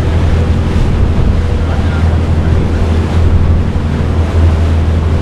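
Steady low drone of a boat under way, with wind buffeting the microphone and water rushing past the hull.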